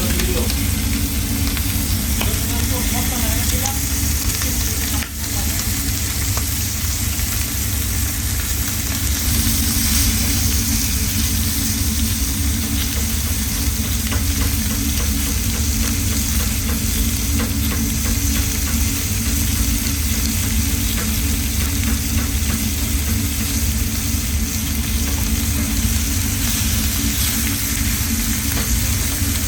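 Food sizzling as it fries in a pan, stirred now and then with a utensil that ticks against the pan, over a steady low hum.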